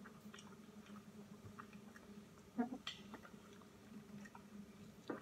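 Faint chewing and mouth sounds from someone eating, with scattered soft clicks and a slightly louder pair about two and a half seconds in, over a low steady hum.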